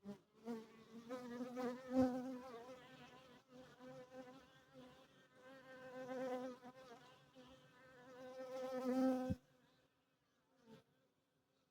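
Honeybees buzzing in flight close by, a steady wingbeat hum that swells and fades as they pass. It stops about nine seconds in, and one short buzz follows near the end.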